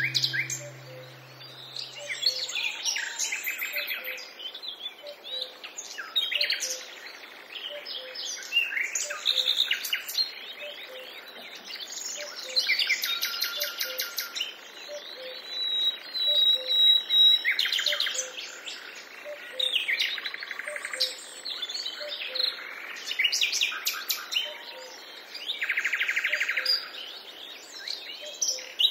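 Many forest birds calling at once: overlapping chirps, fast trills and short whistled notes, with a soft low note repeating steadily underneath.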